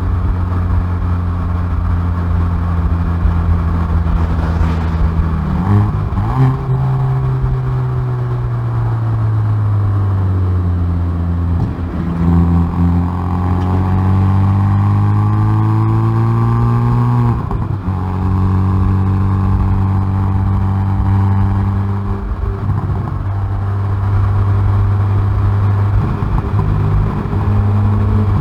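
Hyundai i30N Performance's turbocharged 2.0-litre four-cylinder, heard through its exhaust at the rear bumper under hard track driving. The engine note falls under braking with a brief blip about six seconds in, then climbs steadily under full acceleration. It drops sharply at an upshift about two-thirds of the way through and pulls on.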